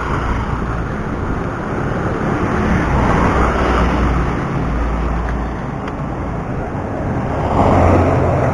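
Road traffic going by, a steady rumbling noise that swells as vehicles pass, about three seconds in and again near the end.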